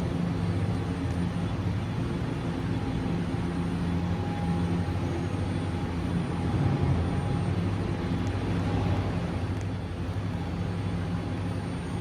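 New York City subway train at a station platform, a steady low hum with a faint higher whine.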